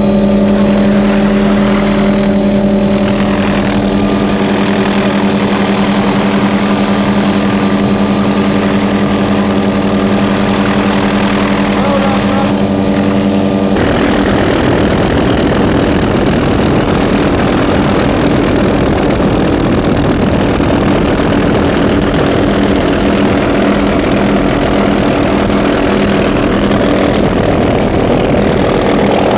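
A loud, steady engine drone with a strong hum. About halfway through the hum weakens and a rougher, noisier rumble takes over.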